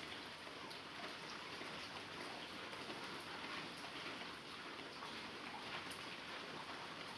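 Heavy rain falling steadily: a continuous even hiss with many separate drop ticks through it.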